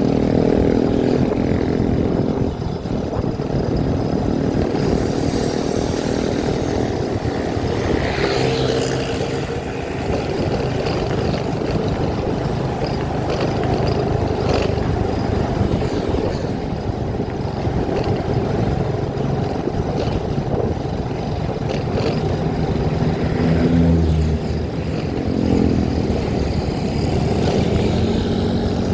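Vehicle engine running with continuous road and wind rumble while driving, the engine note rising and falling at times.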